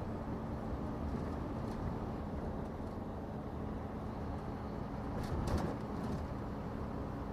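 Scania truck cab at cruise: the engine runs steadily with road and wind noise and a steady low hum. A brief rattle of clicks comes about five seconds in.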